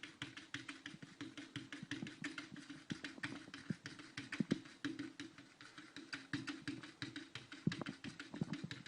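Faint, quick, irregular clicks and taps, several a second, over a steady low hum.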